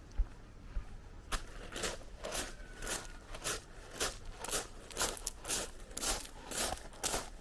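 Footsteps crunching on beach pebbles at a steady walking pace, about two steps a second, starting just over a second in.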